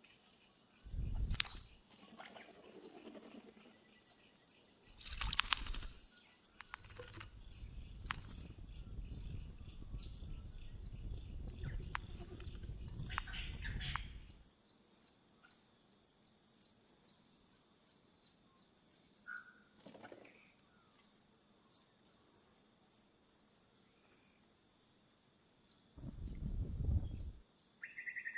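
A small bird's high chirp, repeated evenly about three times a second, with low rumbles of wind noise on the microphone coming and going.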